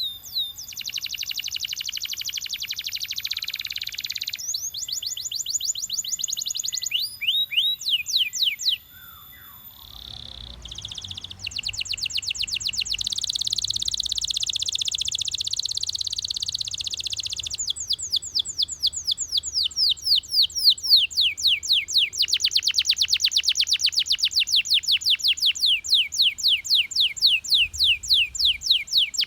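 Belgian canary singing: fast rolling trills, then runs of quick repeated sweeping notes, with a short pause near the middle.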